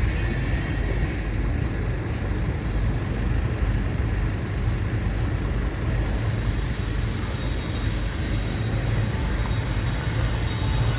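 Freight train of intermodal cars rolling slowly past, a steady low rumble of wheels on rail. A high steady hiss joins about halfway through.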